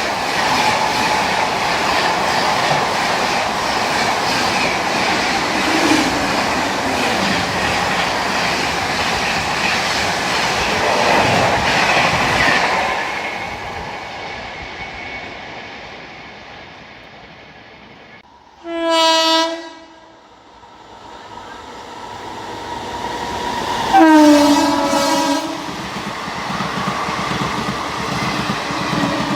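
A fast Indian Railways train passing at speed, its wheel and rolling noise fading away over several seconds. Then a locomotive horn sounds one short blast, and a second blast about five seconds later as the noise of another train builds again.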